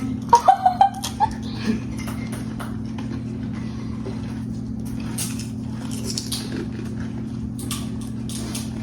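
People eating pani puri fast: crisp puri shells crunching and mouth sounds, in short irregular crackles, over a steady low hum. A brief vocal squeal or laugh comes in the first second.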